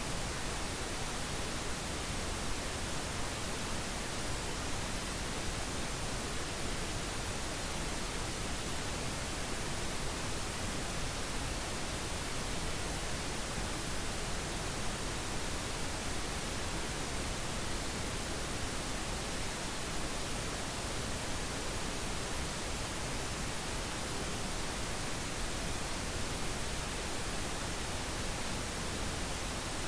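Steady pink noise: an even, unchanging hiss spread across the whole range, with no events or variation.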